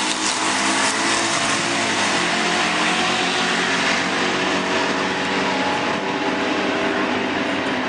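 A 1994 Camaro's engine running with a steady, even note that eases slightly lower over the first couple of seconds, under a constant hiss.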